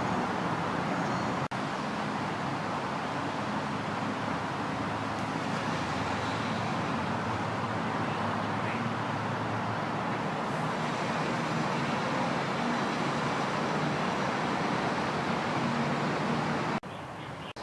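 Steady road traffic noise, a continuous rush of passing vehicles, cutting off suddenly near the end.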